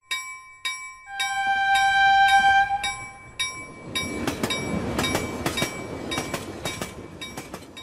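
Train sound: a bell rings in quick repeated strokes throughout, and a horn sounds one held note for about two seconds near the start. In the second half the rumble of a rolling train comes in under the bell.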